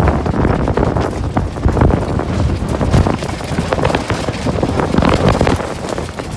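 Rapid, irregular knocks and clatter over a low wind rumble, aboard a sailboat in strong wind.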